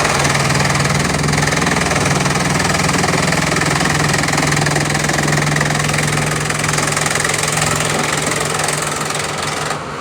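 Bamboo chipping machine running, a steady engine drone with a dense rush of noise as it chips bamboo. It drops away near the end.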